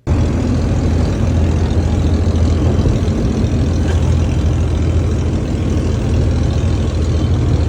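Motorboat engine running steadily at speed: a loud, constant low drone with a rush of air and water noise over it.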